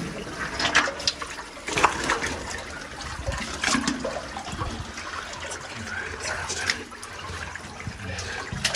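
Water running and splashing in a cave's spring stream, with irregular splashes and knocks as someone moves through it.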